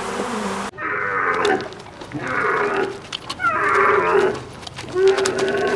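Dromedary camels calling: four drawn-out, pitched groaning calls, each under a second long and about a second apart. Before them, the buzzing of honeybees stops abruptly less than a second in.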